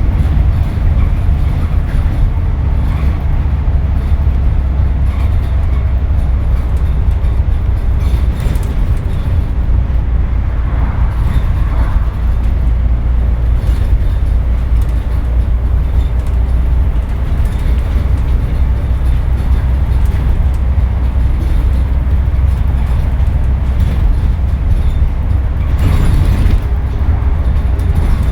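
A Scania N230UD double-decker bus's diesel engine and drivetrain heard on board while under way, a steady, heavy low drone with road rumble and cabin noise. It holds an even pitch with no clear gear changes.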